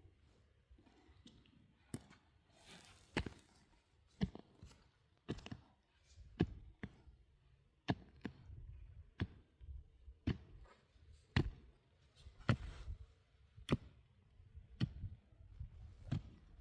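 Pickaxe striking rock again and again, about one blow a second, with a low scrape and crumble between blows.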